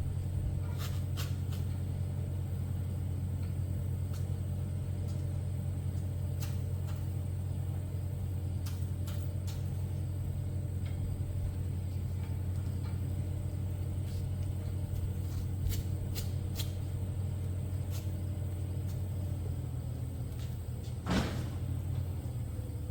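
Steady low mechanical hum with scattered light clicks, and one sharper knock near the end.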